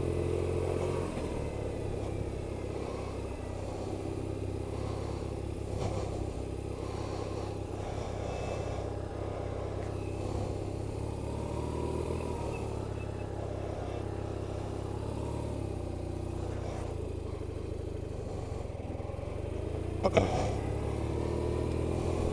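A BMW R1150RT's boxer-twin engine running steadily. One sharp knock comes near the end.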